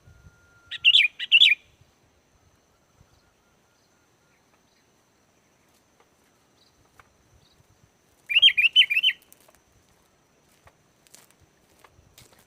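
Sooty-headed bulbul (kutilang) singing: two short phrases of quick, wavering notes, one about a second in and another about seven seconds later.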